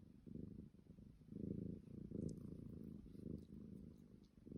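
Domestic cat purring faintly, a low pulsing purr that swells and fades with each breath while its whiskers are being tugged.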